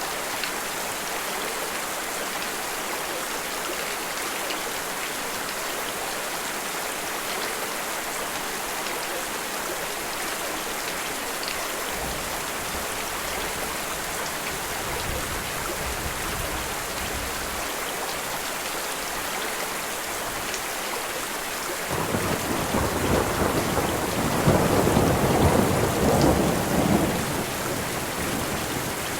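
Steady rain hiss, with a faint low rumble of distant thunder from about halfway through and a louder roll of thunder near the end that swells and then fades.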